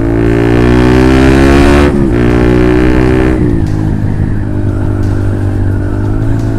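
Honda CB150R's single-cylinder engine through a Lone Ride aftermarket exhaust, accelerating on the road: the pitch rises, drops sharply at a gear change about two seconds in, rises again, then eases off to steadier running for the rest.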